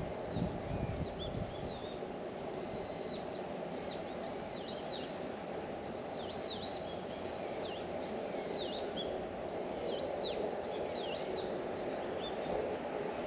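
Small birds chirping over and over with short arched calls, over a steady low hum of distant background noise.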